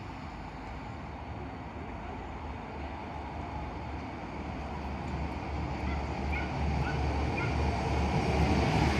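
Passenger train rumble with a strong low hum, growing steadily louder over several seconds, with a few faint high squeaks near the end.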